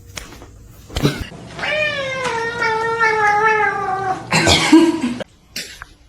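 A cat yowling: one long, drawn-out call of about two and a half seconds that slowly falls in pitch, followed by a short harsh burst. A knock sounds about a second in.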